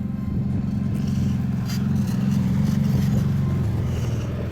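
Can-Am Outlander 850 ATV's V-twin engine running under way, building a little over the first three seconds and easing off slightly near the end.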